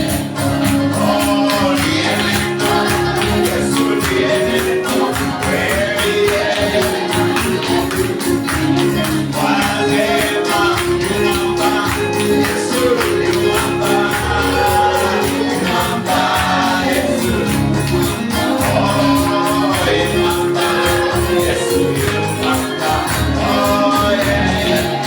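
Live gospel praise-and-worship music: voices singing over sustained keyboard-like tones and bass, with a tambourine keeping a steady beat.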